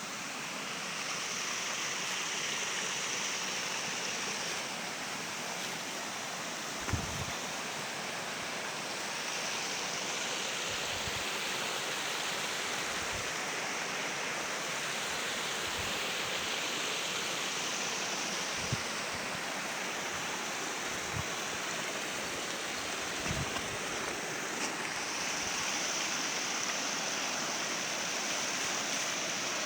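Steady rushing of flowing water, swelling and easing a little, with a few soft low bumps scattered through it.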